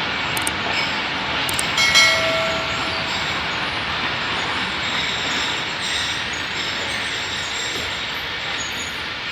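Pakistan Railways Millat Express passenger train rolling slowly through a station, with a steady rumble of wheels and coaches on the rails. A brief pitched tone sounds about two seconds in.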